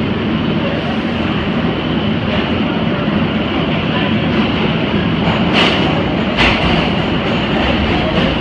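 R188 subway train (converted R142A cars) running on the 7 line: a steady loud rumble of wheels on rail, with two sharp clacks about five and a half and six and a half seconds in.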